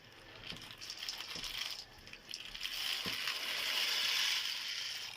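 Dry pasta tipped into a pot of boiling water: scattered light clatters and rattles, then the hiss of the boiling water, growing louder from about halfway and cutting off suddenly at the end.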